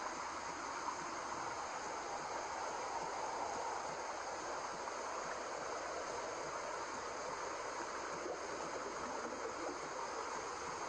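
Steady white noise: an even, unchanging hiss with no rhythm or breaks.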